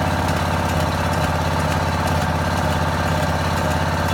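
Small gasoline engine of a hydraulic pier-jacking machine running steadily at a turned-down throttle while it presses the piers and lifts the porch.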